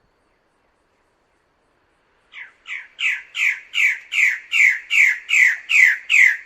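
Bird-of-paradise calling: a run of about eleven loud notes, each falling in pitch, about three a second and growing louder, beginning a little over two seconds in.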